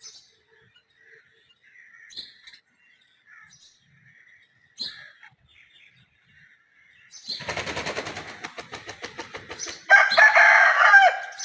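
Desi rooster flapping its wings in a rapid run of beats, then crowing loudly near the end. Faint small-bird chirps are heard before the wing beats.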